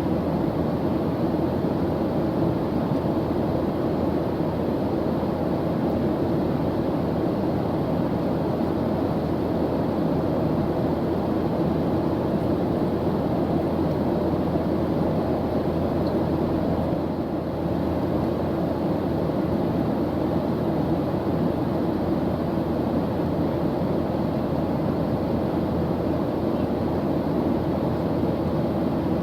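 Airplane engines' steady, even drone, deep and rushing, with a slight brief dip in level about two thirds of the way through.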